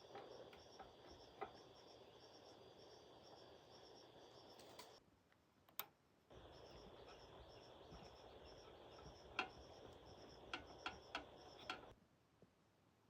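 Insects chirping in a rapid, even pulse over a steady high drone, with scattered light clicks and taps, mostly in the second half. The whole background cuts out abruptly twice.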